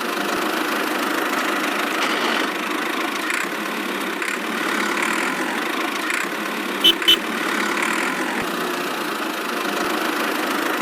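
Small motor and gearing of a miniature DIY construction machine running steadily, with two brief louder tones about seven seconds in.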